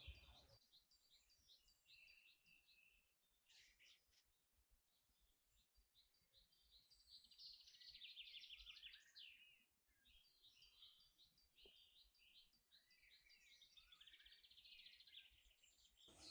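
Faint forest birdsong: several small birds chirping and trilling high-pitched, with the busiest quick trills about seven to nine seconds in and again near the end.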